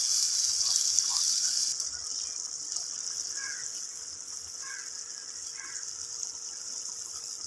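Beef mince sizzling as it fries in ghee and spice masala in a clay pot, a steady hiss, stirred with a wooden spoon at first and a little quieter from about two seconds in.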